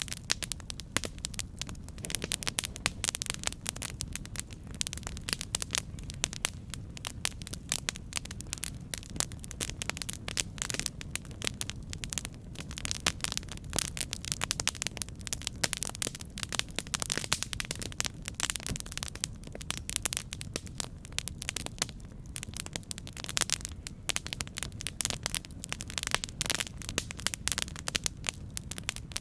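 Campfire burning with dense, irregular crackling over a low, steady rumble.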